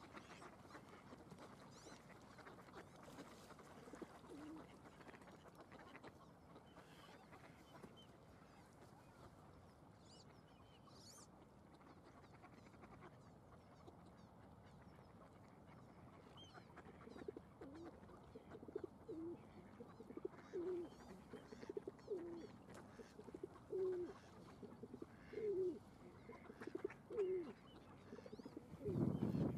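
A bird giving a run of short, low calls, each falling in pitch, about one a second through the second half, over a faint steady outdoor background.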